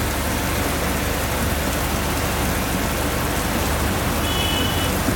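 Heavy rain falling steadily on a vehicle's window and body, heard from inside over a steady low rumble of the vehicle. A brief high tone sounds about four seconds in.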